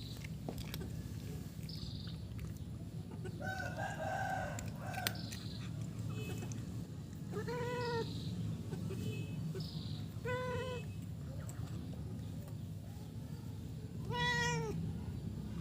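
Stray cat meowing to be fed: a rougher cry about four seconds in, then three drawn-out meows a few seconds apart, over a steady low hum.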